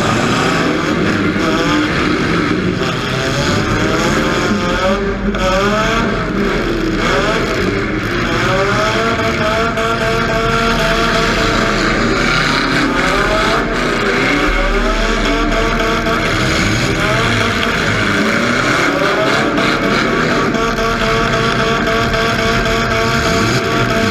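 Demolition derby car engines revving hard, the pitch rising and falling over and over as the cars accelerate and back up.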